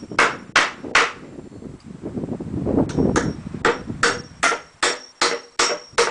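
Hammer driving nails into pallet-wood boards: three quick blows, a pause with the shuffle of boards being handled, then a steady run of about eight blows, roughly two and a half a second.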